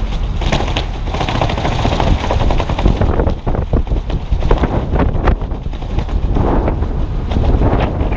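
Strong wind buffeting the camera microphone as a heavy low rumble, with a rapid, irregular run of sharp clicks and knocks, thickest around the middle.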